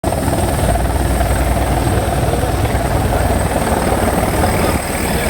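Helicopter running: a loud, steady rotor and engine drone.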